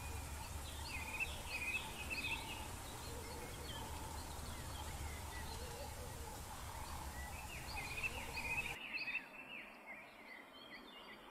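Several birds chirping and calling in short repeated phrases over a low steady rumble; the sound drops away about nine seconds in.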